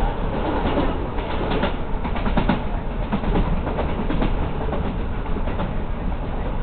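Local passenger train running on the Slough–Windsor branch line, heard from on board: a steady rumble with irregular clicks of the wheels over the track.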